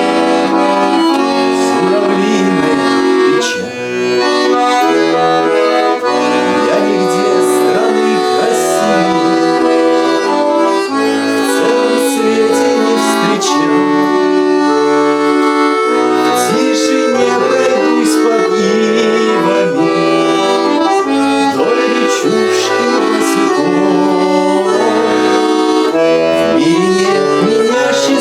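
Accordion playing a folk-style song melody over sustained chords, at a steady loud level.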